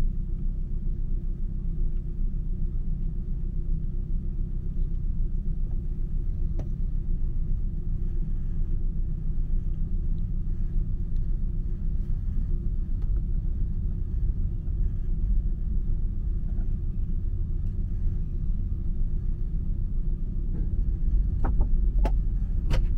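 Steady low rumble inside a night-train sleeping car as it pulls out of the station and gathers speed, with a constant hum underneath. A few sharp clicks come near the end.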